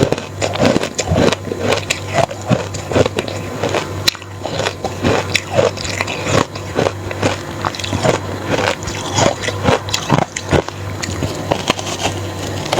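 Someone biting and chewing reshaped crushed ice dusted with matcha powder: close, irregular crunches, several a second.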